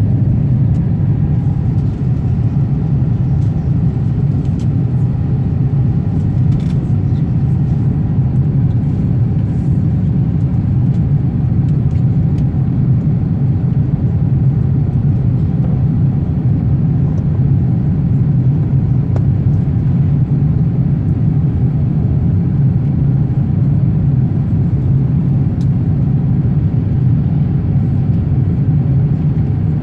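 Airbus A350 cabin noise in flight: a steady, loud low rumble of the engines and the airflow past the fuselage, heard from inside the passenger cabin.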